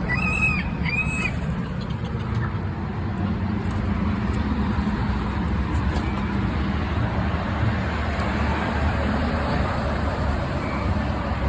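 Two short, arched bird calls about a second apart at the start, over a steady low rumble.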